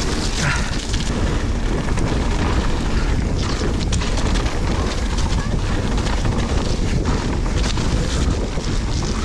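Wind rushing over the camera microphone with tyre rumble and rattles from a mountain bike descending a muddy trail at speed, with a few sharp knocks along the way.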